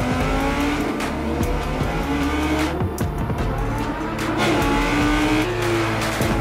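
Audi R8's V10 engine accelerating hard, its pitch rising in several pulls as it works up through the gears, with music playing underneath.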